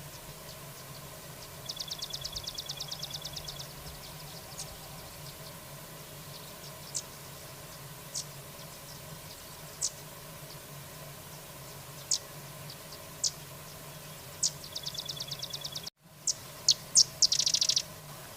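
A small songbird, the carrizalero, calling with sharp, high single chips every second or so, twice breaking into a rapid, even trill. Near the end, after a brief dropout, come louder chips and a dense trill, over a steady low hum.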